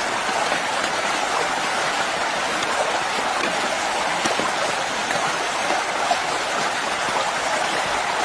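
Heavy rain pouring steadily, a dense even hiss with faint patter of drops.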